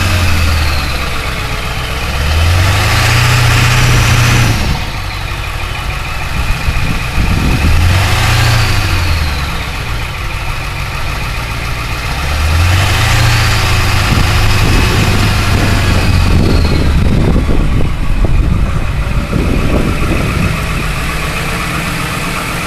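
Ford 7.3L Power Stroke V8 turbo-diesel of a 2002 F250 running after a cold start at 22°F on summer fuel, idling and revved up and let back down three times, the third rev held a few seconds longer.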